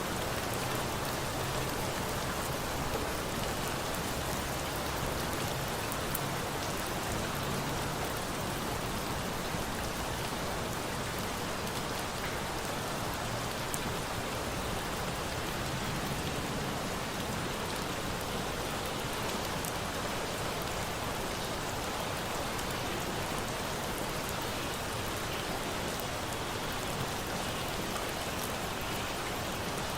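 Steady rain falling, an even hiss of drops, with a few faint crackles of a campfire scattered through.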